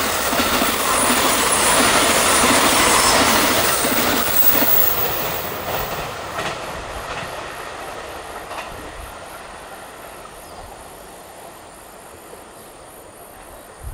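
Thunderbird limited express electric train passing on the track, a loud rush of wheels on rail that fades as the train draws away. There are a few wheel clacks over rail joints about six to nine seconds in.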